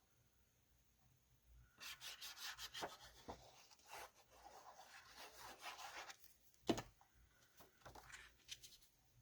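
Paper or cardstock rubbing and scraping on a desk for about four seconds, then one sharp click and a few lighter ticks near the end.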